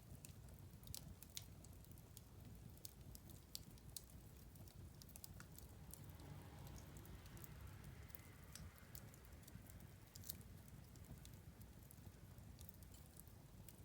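Wood fire crackling faintly: scattered sharp pops and snaps over a low steady rumble, with a soft hiss swelling up in the middle and fading again.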